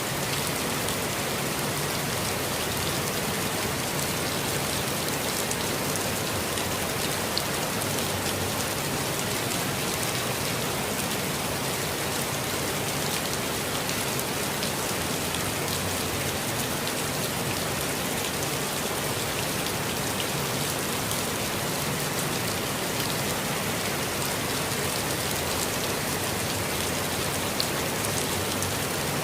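Steady rain falling on a forest, a dense even hiss of rainfall with the patter of scattered individual drops.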